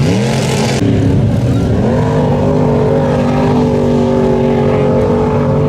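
Mud bog truck engine revving, its pitch climbing twice in the first two seconds, then held loud at steady high revs.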